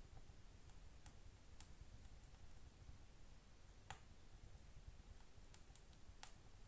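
Wood fire in a fireplace crackling faintly: a few sparse, irregular pops and clicks over a low background hush, the sharpest about four seconds in.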